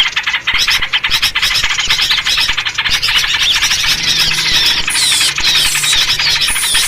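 Dense, noisy chorus of many small birds chattering and calling at once, with yellow-vented bulbul (trucukan) calls featured. Rapid repeated notes run throughout, with falling whistled slurs in the second half.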